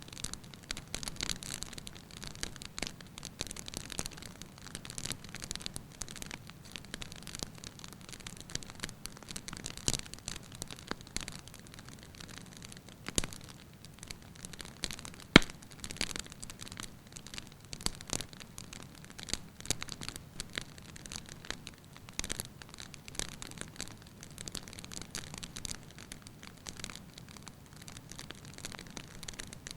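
Wood fire crackling in a fireplace, with irregular small snaps and pops over a soft hiss, and one sharp, louder pop about halfway through.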